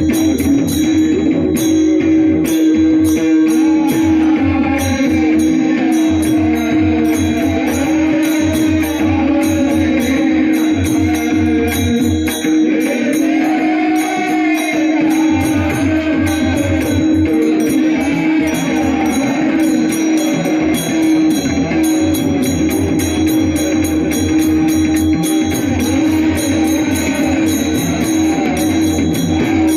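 Varkari kirtan music: a male voice sings a slow, ornamented melodic line over a steady held drone, with pakhawaj drum strokes and small hand cymbals keeping a regular beat.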